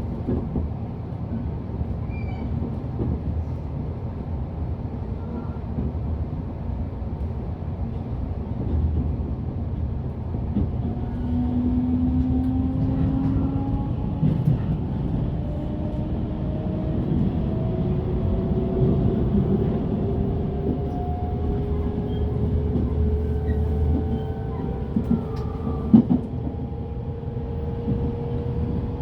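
Interior running sound of a JR Central 383 series tilting electric train: a steady rumble of wheels on rail, with the traction motors' whine rising slowly in pitch from about ten seconds in as the train picks up speed. A sharp knock stands out near the end.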